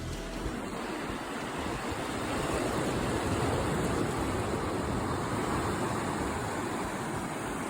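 Steady rushing of moving water, swelling slightly a few seconds in.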